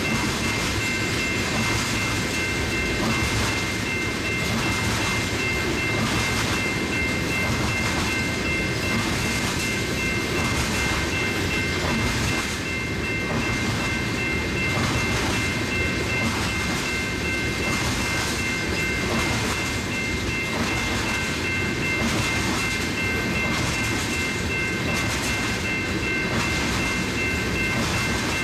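Loaded tank cars of a BNSF unit oil train rolling past at steady speed, wheels clicking rhythmically over rail joints under a continuous rumble, with a thin steady high tone running through it.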